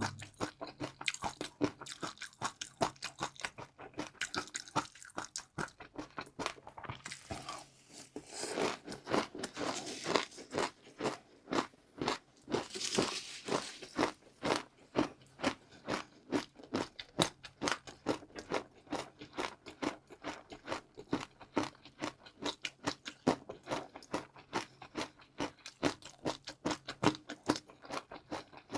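Close-miked chewing of crunchy food, a rapid steady run of crisp crunches several times a second, growing louder and denser for a few seconds about a third of the way in.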